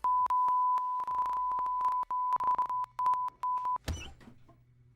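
A 1 kHz censor bleep, chopped into many short irregular pieces as if covering a stream of words, stopping about four seconds in. A short thud follows right after.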